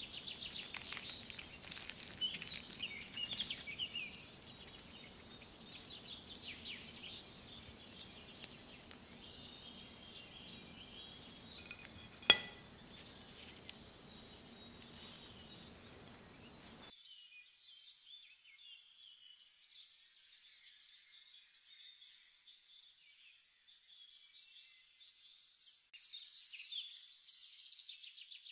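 Birds chirping in the background, with one sharp clink about twelve seconds in.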